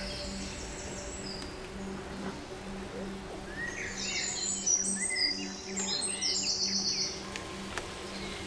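Small birds singing, a run of quick high chirping phrases in the middle, over faint background music with a soft steady pulse.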